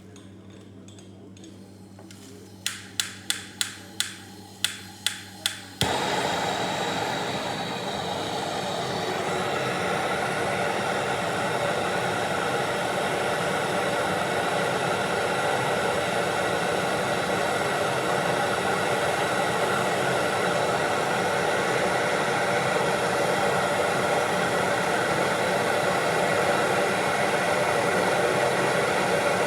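About eight sharp clicks in quick succession, then a blower-type motor starts suddenly and runs with a loud, steady rushing noise.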